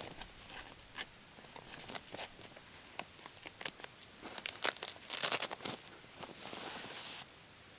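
Rustling and crinkling of bags and gear being handled, with scattered clicks and a busier cluster of rustles about five seconds in. A steady hiss begins about six seconds in and stops suddenly about a second later.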